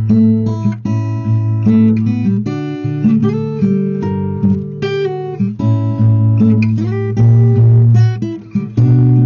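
Acoustic guitar playing, a run of plucked notes and chords.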